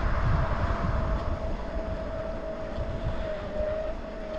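Wind rumbling on the microphone of a moving bike, with a steady thin whine held at one pitch underneath.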